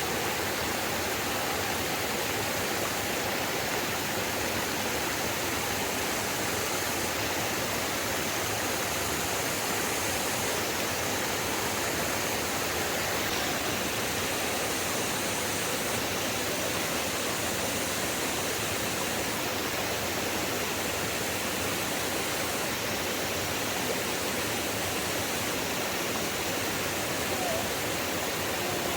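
Steady rushing of water, an even noise without breaks or distinct events.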